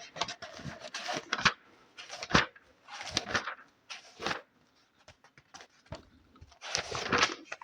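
Close-miked paper handling: a series of short crisp rustles and light taps with brief quiet gaps between them, the loudest rustles about two and a half seconds in and near the end.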